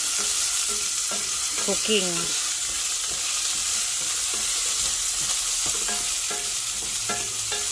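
Chicken pieces and onion sizzling as they fry in rendered chicken fat in a pot, stirred now and then with a utensil.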